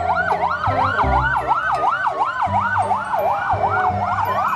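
Electronic siren of a toy fire engine: a fast yelp of about three sweeps a second over a slower wail that glides down and up, with a low electronic tune of held notes beneath.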